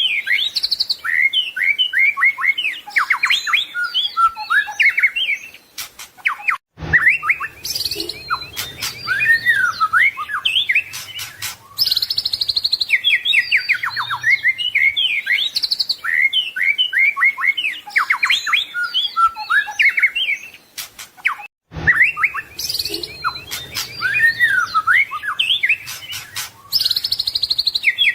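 White-rumped shama singing a rapid, varied song packed with mimicked phrases of other birds (isian), fast whistles and trills one after another. The song breaks off briefly about seven seconds in and again about twenty-two seconds in, and the same run of phrases repeats after each break.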